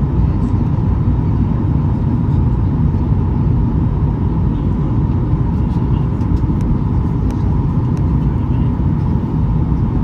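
Steady cabin noise of a Boeing 737-800 in flight, heard from a seat over the wing: a constant deep roar of the CFM56-7B engines and airflow with a steady higher whine running through it.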